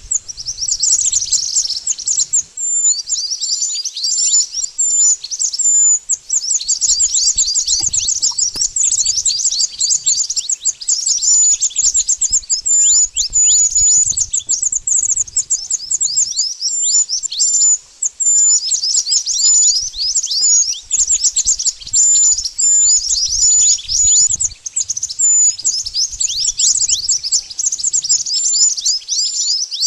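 Mantenan bird singing: a rapid, nearly continuous string of high chirps and quick down-slurred whistles, pausing only briefly now and then. This is the mantenan's call as played to lure wild birds.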